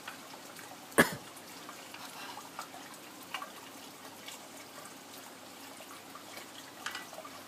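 Steady rain falling and dripping, with one sharp knock about a second in.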